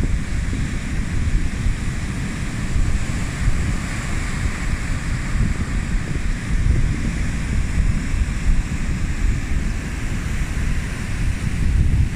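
Stormy sea surf breaking continuously, with gusty wind buffeting the microphone as a low rumble.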